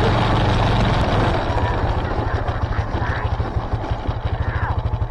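Small lawn tractor engine running, long unused and just fed through a blown-out fuel line. It holds a steady hum at first; after about a second its firing pulses turn into a distinct, rapid, even chug, as if it has dropped to a slower speed.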